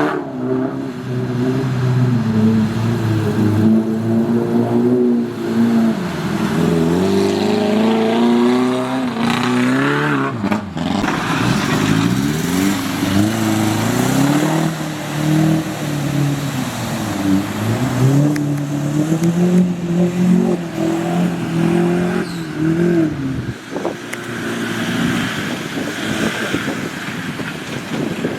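Off-road vehicle engine revving, its pitch rising and falling again and again under changing throttle. About 23 seconds in the engine note mostly drops away, leaving a rushing hiss.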